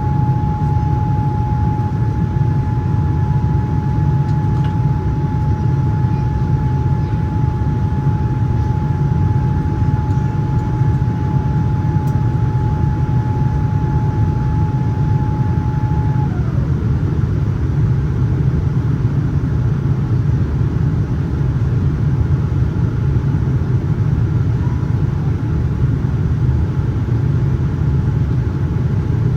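Steady cabin noise inside a Boeing 787-9 in flight: a low rush of airflow and engine noise, with a steady high whine that slides down and stops a little past halfway.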